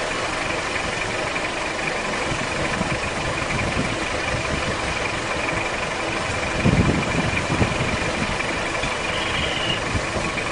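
Car engine idling steadily, with a brief louder low sound about two-thirds of the way through.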